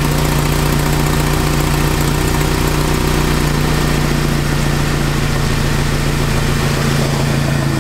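Toyota Tacoma 2RZ 2.4-litre four-cylinder engine idling steadily. It is running properly now that a new engine coolant temperature sensor is connected.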